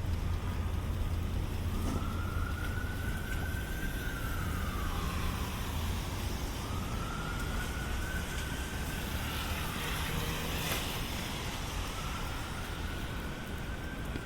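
An emergency vehicle siren on a slow wail, rising and falling three times, over a steady city traffic rumble.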